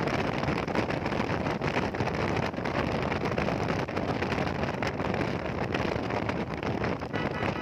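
Wind rushing over the microphone of a moving motorcycle, a steady dense noise with road noise beneath. A short high steady tone comes in near the end.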